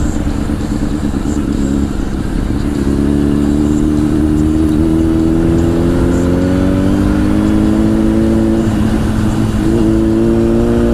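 Honda CBR1000 inline-four motorcycle engine with a Two Brothers exhaust, its note rising slowly as the bike accelerates under wind noise. Near the end the pitch drops and breaks briefly, like a gear change, then climbs again.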